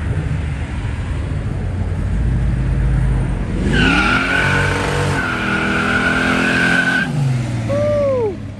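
A car accelerating hard with a low engine rumble, then about three and a half seconds in the engine revs up and the tires squeal steadily for about three seconds before cutting off.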